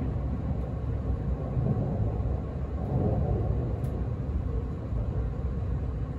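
Steady low rumble of an E257 series electric train running, heard from inside the passenger car.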